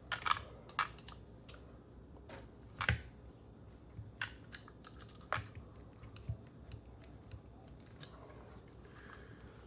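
Irregular sharp clicks and taps of hand tools prying against the RC car's electric motor and its mount, working the tightly seated motor loose. The loudest knocks come near the start and about three seconds in.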